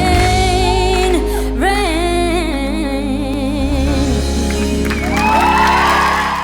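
A female singer holding long, wavering notes over a band accompaniment with a steady low bass: the close of a pop ballad.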